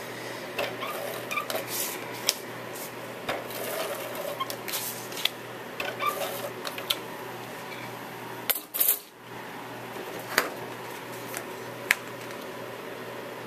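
Cardstock and craft tools handled on a work table: scattered clicks, taps and paper rustles, with a longer paper swish about eight and a half seconds in, over a steady low hum.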